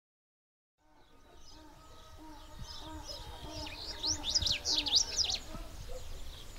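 Silence, then outdoor ambience fading in about a second in: birds chirping over a low rumble, with a quick burst of high, rapidly rising and falling chirps about four seconds in.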